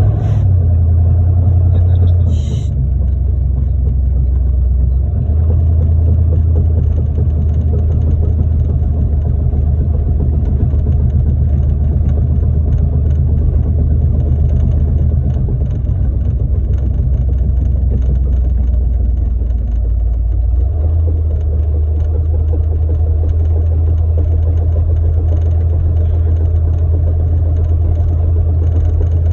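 Steady low rumble of a car being driven, its pitch shifting a few times; no distinct clunk stands out.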